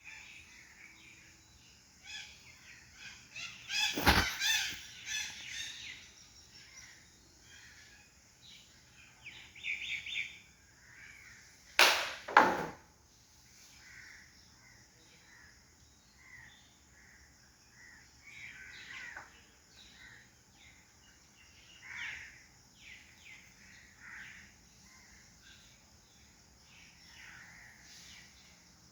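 Birds calling on and off, with crow-like caws among them. Two loud sudden sounds break in: one about four seconds in and a double one about twelve seconds in.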